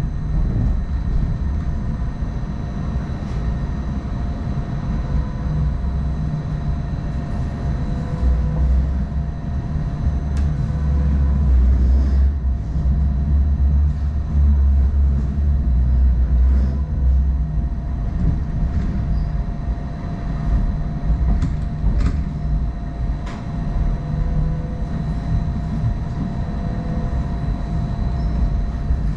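Hong Kong Light Rail Phase I train running along the track: a steady low rumble with a constant whine over it, and a few sharp clicks about halfway through and again near the end.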